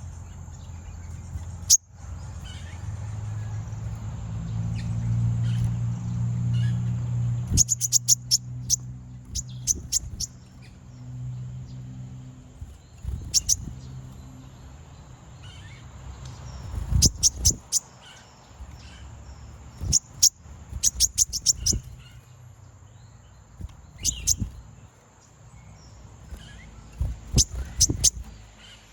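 Konin (kolibri ninja sunbird) giving bursts of rapid, sharp, very high chirps, a challenge call that provokes rival konin to sing. A low hum runs under the first half, and a thin steady high whine runs throughout.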